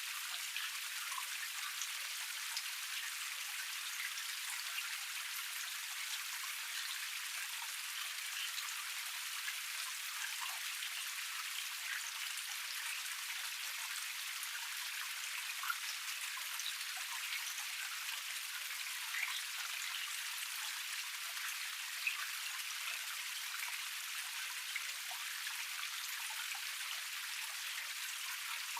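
Water of a small forest cascade splashing steadily over rocks, a dense patter of droplets with a few louder splashes.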